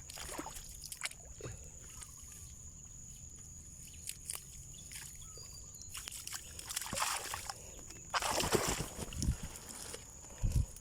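Shallow water sloshing and splashing in two bursts, the louder and longer one about 8 seconds in, with scattered small knocks and a couple of low thumps near the end.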